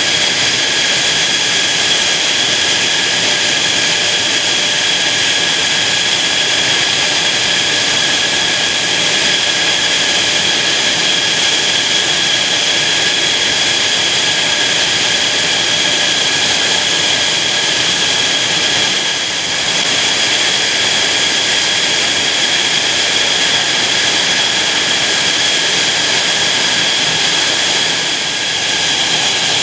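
Jet fighter engine running steadily: a loud, even roar with a constant high whine that holds its pitch throughout.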